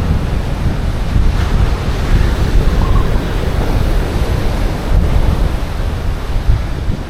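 Strong wind buffeting the microphone with a heavy low rumble, over the steady wash of sea waves breaking on a beach.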